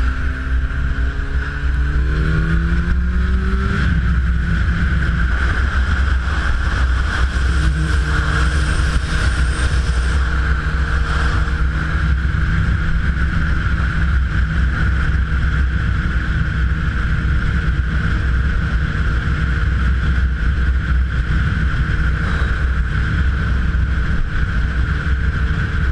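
Car engine and road noise while driving. The engine's pitch rises as the car accelerates over the first few seconds, then settles into a steady cruise.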